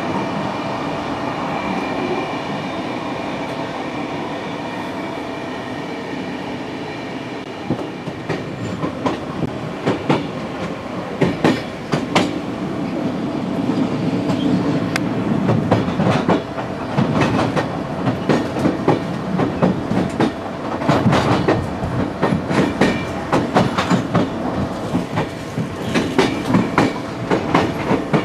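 Passenger train running on rails. For the first several seconds there is a steady hum with a few held tones. From about eight seconds in, the wheels click and clack ever more often over rail joints and points.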